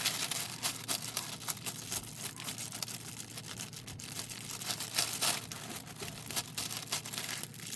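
Plastic packaging and the thin plastic cover sheet of a diamond painting canvas crinkling and rustling as they are handled, in quick irregular crackles.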